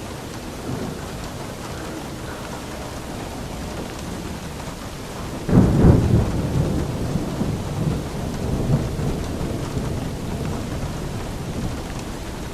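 Steady rain, with a sudden clap of thunder about halfway through that rumbles low and fades away over several seconds.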